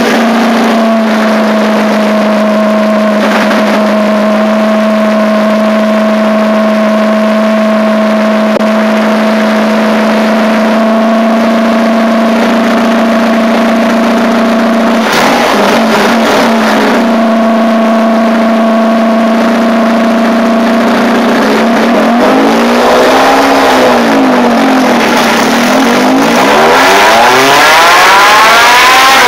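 A hatchback's engine running on a chassis dyno. It holds a steady speed with an even drone and has a brief rough patch about halfway. In the last few seconds the revs swing up and down several times, then start climbing near the end.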